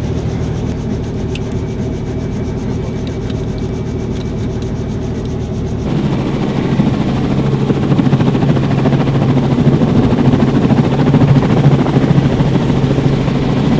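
A vehicle engine running steadily. About six seconds in it cuts abruptly to a louder helicopter with a fast rotor flutter.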